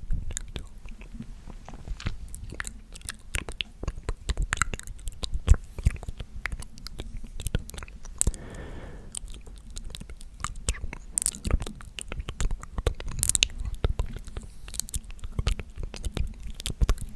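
ASMR mouth sounds made very close to the microphone: rapid, irregular wet clicks and smacks, with a short breathy whisper about eight seconds in.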